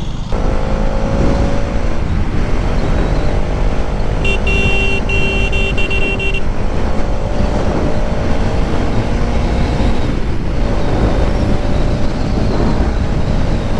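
Bajaj Pulsar NS200's single-cylinder engine running steadily at road speed under heavy wind and road rush. About four seconds in, a vehicle horn sounds for about two seconds.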